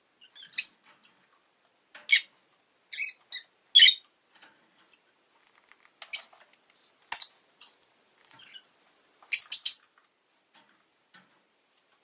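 Pet rosy-faced lovebirds (Agapornis roseicollis) calling: short, shrill chirps in bursts of one to four, spaced a second or two apart.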